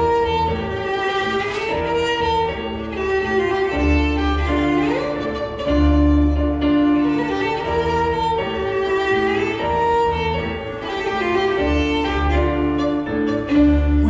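Live band playing an instrumental passage: a violin carries a flowing melody over piano and deep bass notes.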